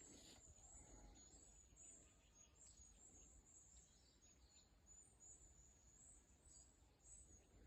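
Near silence: faint woodland ambience with a thin, high-pitched chirring that runs on unbroken.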